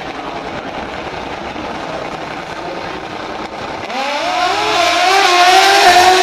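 Drag-racing motorcycle launching and accelerating hard about four seconds in, its engine pitch climbing in steps and growing louder. Before that there is a steady engine drone.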